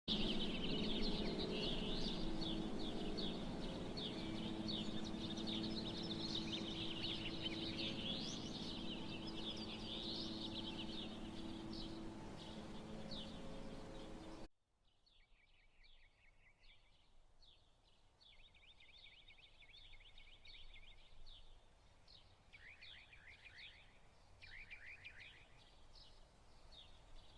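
Many small birds chirping and twittering over a steady low hum. About halfway through, the sound cuts abruptly to a much quieter stretch where the hum is gone and only scattered bird trills remain.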